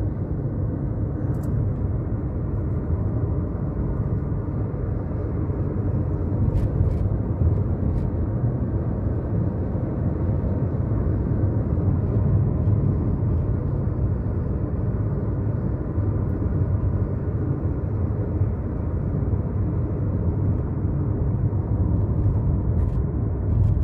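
Steady road and engine noise of a moving car heard from inside the cabin: an even low rumble.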